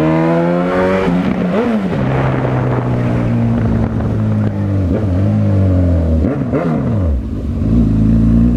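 Honda CB1000R's inline-four engine under way. The revs rise at the start, drop with a gear change about a second in, then hold steady. Around six to seven seconds they fall and bend in quick dips, and the engine pulls again near the end.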